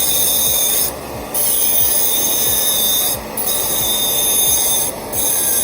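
Cast non-precious metal frame being ground with a dental lab grinder: a loud, high-pitched grinding, broken by three brief pauses, about a second in, past three seconds and near the end.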